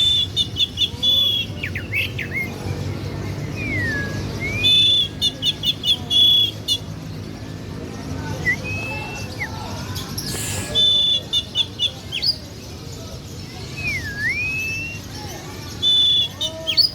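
A songbird in full song: bursts of rapid, repeated high notes about every five seconds, with slurred whistles that dip down and rise back up in between.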